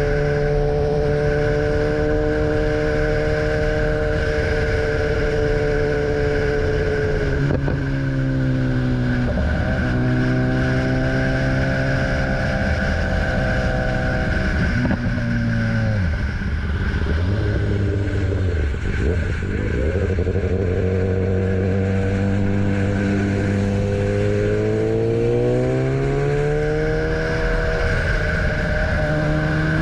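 BMW S1000R motorcycle's inline-four engine running under way, its pitch dropping in several steps as the rider shifts or rolls off the throttle, then climbing steadily again near the end as it accelerates.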